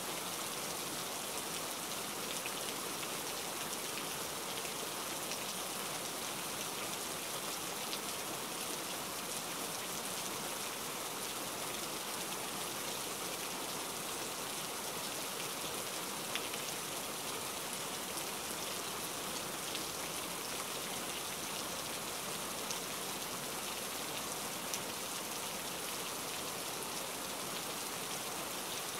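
Steady rain falling, an even wash of patter with a few sharper single drops standing out now and then.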